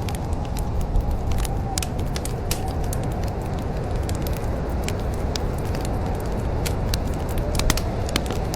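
Wood fire crackling in a fireplace: sharp pops and snaps at irregular intervals over a steady low rumble of the flames.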